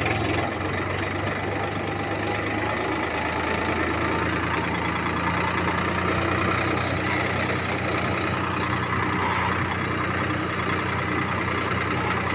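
Tractor engine running steadily; its engine note changes about four seconds in.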